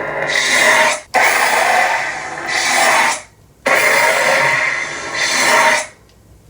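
Custom lightsaber's sound board playing a Lord Blako sound font through its speaker: the blade's buzzing hum swelling and fading with swings, breaking off sharply three times.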